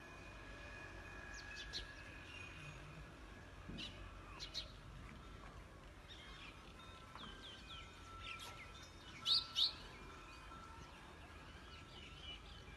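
Birds chirping outdoors: scattered short, sharp high chirps and some falling whistled notes, with two louder chirps in quick succession about nine seconds in, over a steady low background hum.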